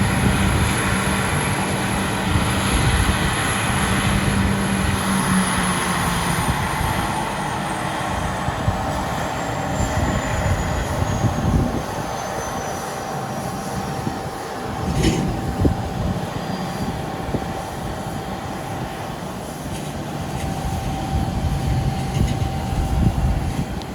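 Airbus A220's Pratt & Whitney PW1500G geared turbofan engines spooling down after shutdown: a high whine that starts falling steadily in pitch about five seconds in and keeps dropping, over a constant rumbling roar. A steady mid-pitched hum remains as the engines wind down, with a short sharp sound partway through.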